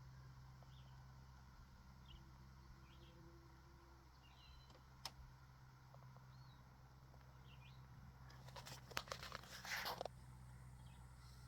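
Faint, thin high chirps from robin nestlings, short notes about once a second over a steady low hum. A burst of rustling crackle comes about two-thirds of the way through and is the loudest sound.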